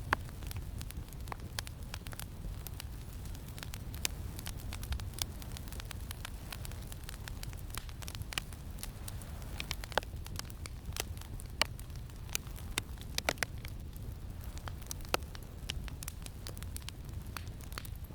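Campfire crackling, with sharp irregular pops scattered through it, a few louder ones in the second half, over a steady low rumble of wind.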